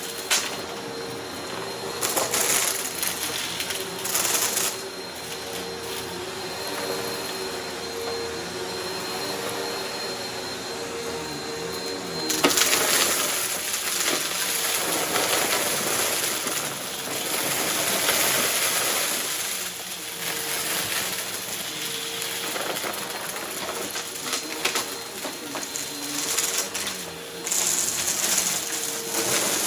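Upright vacuum cleaner running steadily over a rug and picking up crunchy debris, with scattered crackles. About twelve seconds in the suction sound turns louder and hissier.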